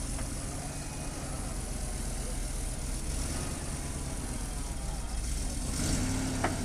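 ZIL-131 army truck's V8 engine running steadily at low revs, briefly louder near the end.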